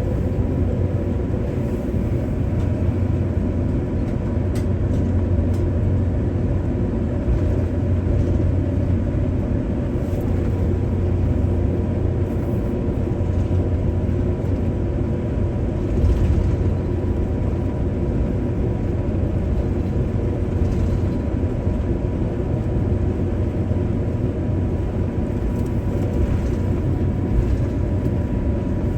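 Cabin noise of an Airbus A350-900 heard from inside the cabin: its Rolls-Royce Trent XWB jet engines and airflow make a steady low rumble, with a thin steady whine running through it.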